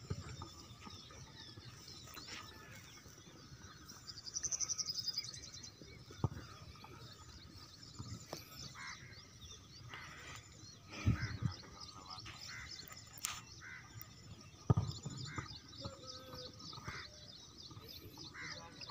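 Birds chirping and calling, with a fast trill about four seconds in. A few sharp knocks stand out through it, the loudest about eleven and fifteen seconds in.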